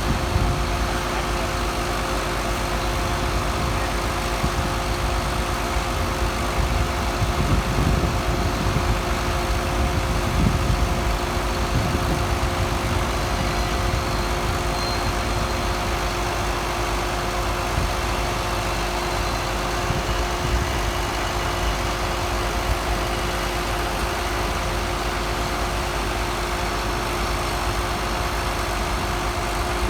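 An engine idling steadily with a constant hum.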